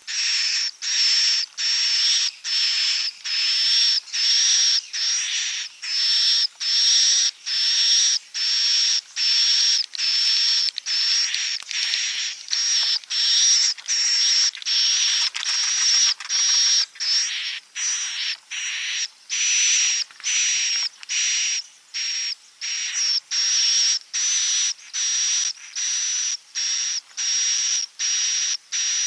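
Swiftlet roosting lure call: a continuous, evenly repeated train of short, raspy, buzzing chirps, about one and a half a second, each with a high thin tone at its top. It is the walet 'inap' call played in swiftlet houses to draw the birds in to roost.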